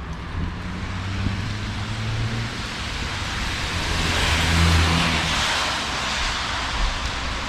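Heavy rain falling steadily, with a car passing on the wet road: a low engine hum and tyre hiss swell to a peak about four to five seconds in, then fade.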